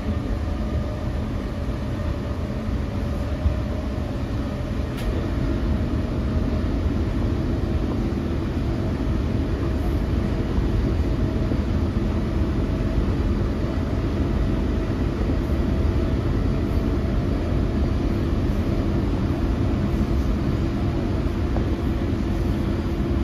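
Sydney Trains electric suburban train running, heard from inside the carriage: a steady rumble of wheels on the track with a faint steady hum, getting slightly louder a few seconds in.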